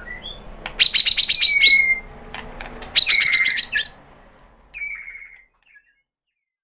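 White-rumped shama singing: rapid runs of sharp repeated notes mixed with slurred, falling whistles and high chips. The song stops about five seconds in.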